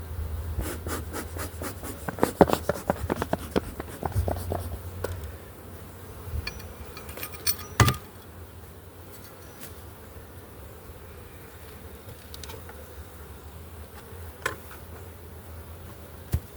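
Honey bees buzzing around an opened hive. Over the buzzing, hive equipment is knocked and scraped in a quick run of clicks in the first five seconds, with a single sharp knock about eight seconds in and a few lighter taps later, as the hive's feeder is taken off.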